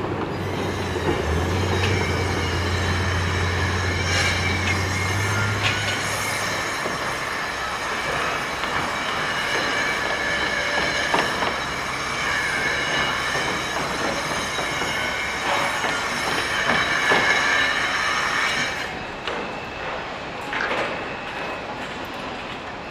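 Sustained metallic squealing from heavy machinery, several high steady tones over a rough grinding rumble. A low engine hum fades out about a third of the way in, and the squeal eases off and quietens near the end.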